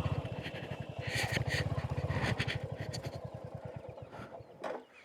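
Royal Enfield Hunter 350's single-cylinder engine idling with an even low pulse, which slows and dies away about four and a half seconds in as the engine is switched off. A few light clicks and rustles sound over it near the start.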